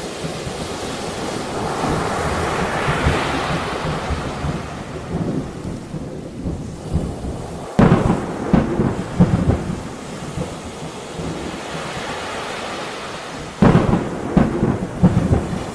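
Thunderstorm with steady rain and rolling thunder. Two sharp thunderclaps, about halfway through and near the end, break into crackling rumbles.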